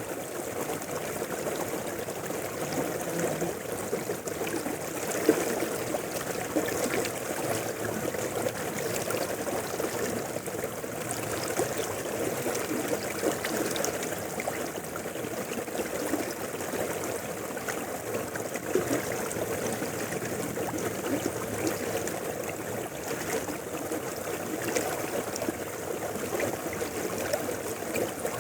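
A mountain river flowing steadily: a continuous, unbroken rush of running water.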